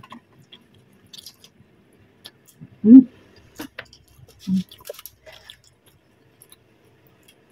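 Close-up chewing of fried chicken: soft, scattered wet clicks and squishes, with a short louder low sound about three seconds in and another about a second and a half later.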